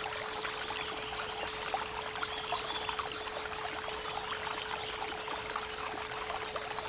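Creek water running and trickling steadily, with a 432 Hz pure tone held underneath it. Small birds chirp faintly now and then, a little more near the end.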